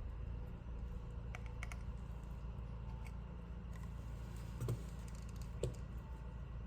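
A few scattered light clicks and taps of small repair tools on phone parts, over a steady low hum.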